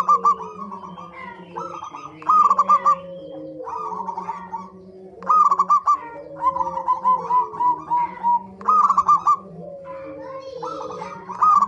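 Several zebra doves (perkutut) cooing together: phrases of quick staccato notes that recur about every three seconds, over other birds' longer, lower calls.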